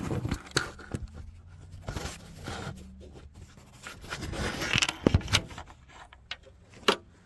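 Handling noises: light scraping and rustling with scattered sharp clicks and knocks, the sharpest a little after the middle and near the end.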